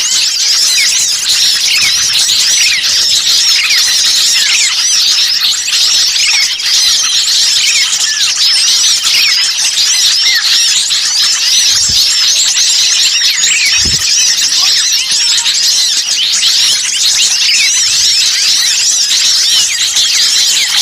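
Bird-lure recording: a dense, noisy chorus of many small songbirds chirping and twittering all at once in fast high notes, a clamour meant to draw wild birds in. Two soft low thumps come about halfway through.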